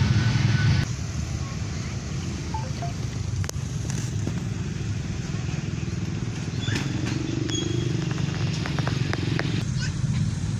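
Steady low rumble of a running vehicle engine, with a few faint short clicks near the end.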